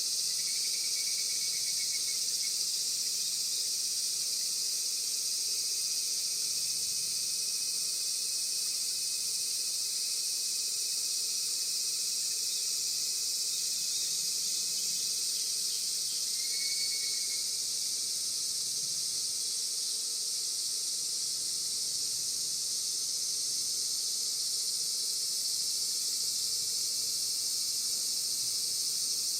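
Steady, dense, high-pitched insect chorus. A short faint trill sounds twice over it, near the start and about halfway.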